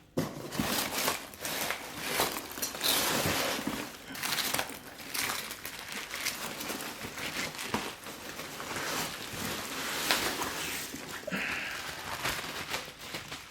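Packing material being handled and pulled from a cardboard box: continuous, irregular crinkling and rustling with scattered crunches.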